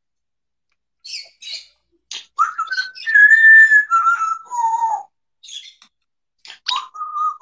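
Parrot whistling: a couple of short clicks and hisses, then a string of clear whistled notes that hold high and then step down in pitch. More clicks and a short whistle come near the end.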